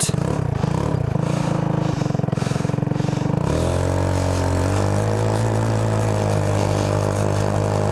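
Go-kart engine running under load while driving, with a lower pulsing note, then revving up about three and a half seconds in and holding a steady, higher pitch.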